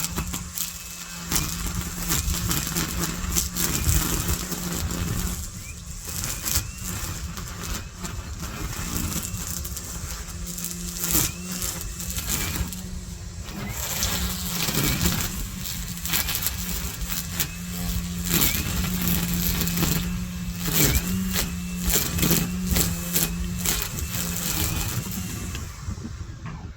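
Gas string trimmer (weedeater) running at high speed as it cuts weeds, its pitch wavering up and down, with many sharp ticks throughout.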